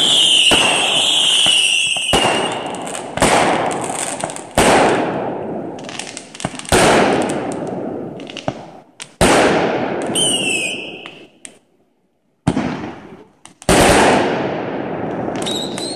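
Consumer fireworks going off: a string of sharp bangs from bursting aerial shells, each trailing off in a long echo. Whistling fireworks shriek with a falling pitch at the start and again about ten seconds in.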